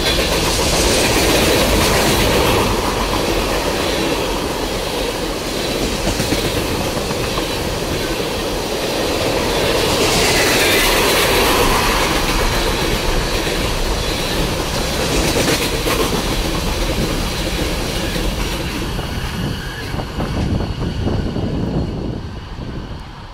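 Freight train cars (covered hoppers, tank cars and open hoppers) rolling past close by, steel wheels clicking over the rail joints. The sound falls away near the end as the last car goes by.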